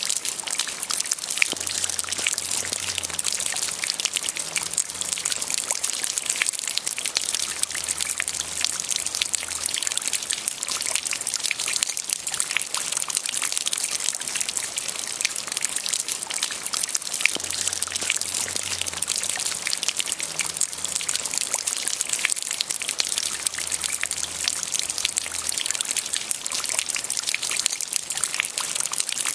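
Steady light rainfall: a dense, even hiss of countless small drops landing, without breaks.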